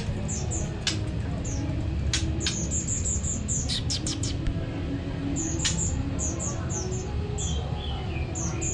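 Caged songbirds singing: a rapid run of short, high chirps and sharp piercing notes, with a short falling series of notes near the end, over steady low background noise.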